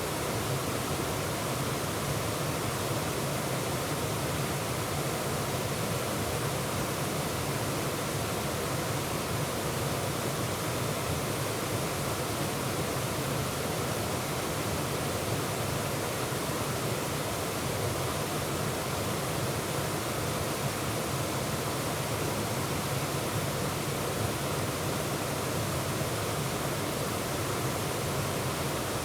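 Waterfall with water pouring and splashing over rocks in a steady, unbroken rush.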